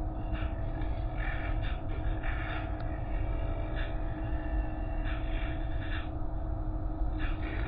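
Car wash machinery running with a steady low rumble and hum, and short hissing surges of water spray coming every second or so.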